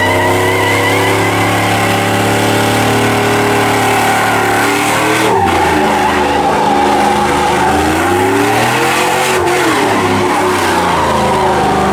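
Vehicle engine held at high revs, its pitch dipping about five seconds in, climbing again and falling back near the end, over a steady hiss.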